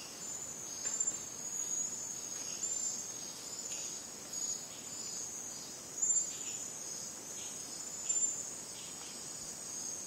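Rainforest insect chorus: dense, high-pitched trilling from many insects at once, swelling and easing every second or two.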